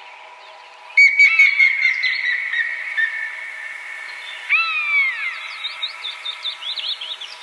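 Birds singing: a sudden burst of whistled notes and chirps about a second in, a long falling whistle at about four and a half seconds, then a run of quick chirps.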